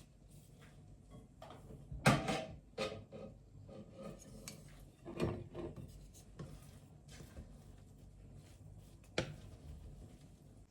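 Objects being handled: a handful of sharp knocks and clatters with rubbing and rustling between them, the loudest knock about two seconds in.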